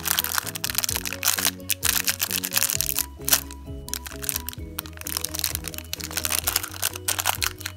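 A small clear plastic bag crinkling and crackling as it is pulled out of a plastic surprise egg and handled, over steady background music.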